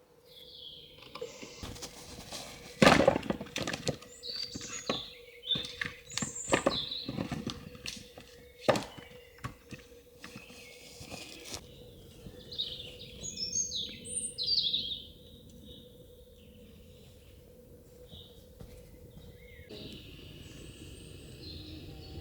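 Birds chirping, with a series of sharp knocks, the loudest about three seconds in and again near nine seconds. Music comes in near the end.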